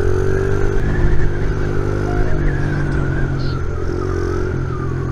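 Honda XR70R pit bike's small four-stroke single-cylinder engine running as the bike is ridden, its pitch wavering with the throttle.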